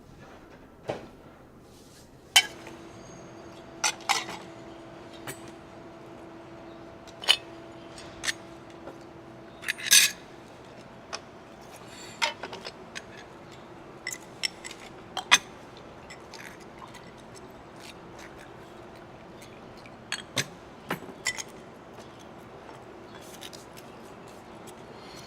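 Teacups, saucers and spoons clinking now and then, in short sharp chinks of china and metal. A faint steady hum sets in a couple of seconds in and fades out about half way through.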